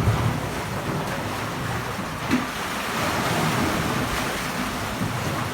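Ocean surf washing in as the tide comes in, a steady rushing wash that swells about three seconds in, with low wind buffeting on the microphone.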